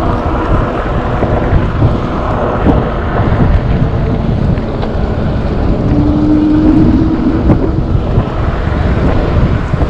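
Heavy wind buffeting on the microphone of a moving e-bike, a dense rumbling rush. Around six seconds in, a steady hum comes in for about two seconds.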